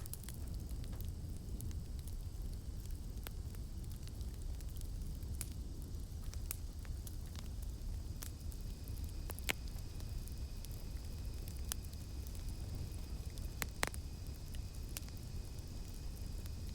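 Campfire burning with a low steady rumble and frequent sharp crackles and pops, two of them louder, about halfway through and near the end. A steady high insect drone, cicadas, runs behind it, with a second lower drone joining about halfway through.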